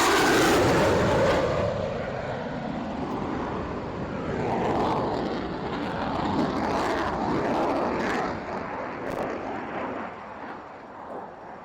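Fighter jet flying past during an airshow: a loud jet roar, loudest in the first second or so with a falling pitch as it passes, which then stays strong for several seconds before fading near the end.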